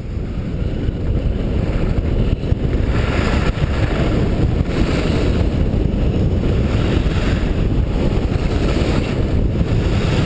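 Wind buffeting a GoPro microphone while skiing fast downhill, with the rush of skis running over snow. It builds over the first few seconds as speed picks up, then holds steady.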